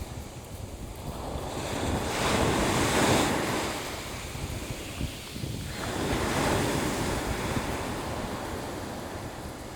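Sea waves breaking and washing on the shore, swelling twice, with wind rumbling on the microphone.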